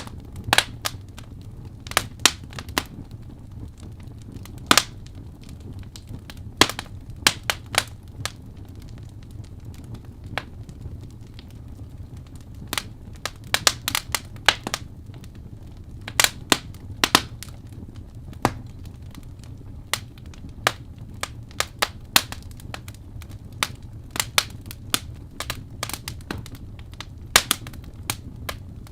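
Wood fire crackling, with irregular sharp pops and snaps at uneven spacing over a steady low rumble.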